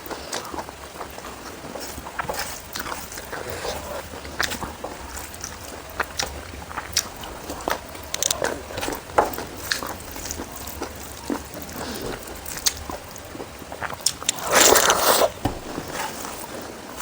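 Close-up eating sounds: chewing and small, irregular mouth clicks, with a louder noisy burst lasting about a second near the end.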